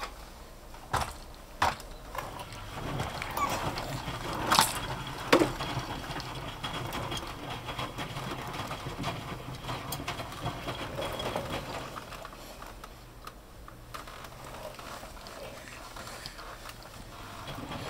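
Miele washing machine running, with a low steady hum and mechanical rattling from the machine. There are several sharp knocks in the first six seconds.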